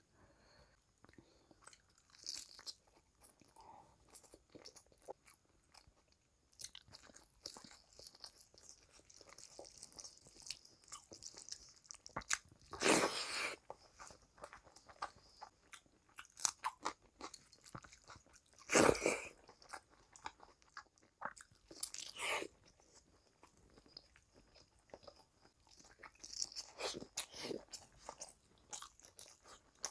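Close-miked eating sounds: wet chewing, lip smacks and clicks from a mouthful of rice and curry eaten by hand, with a few louder bursts near the middle.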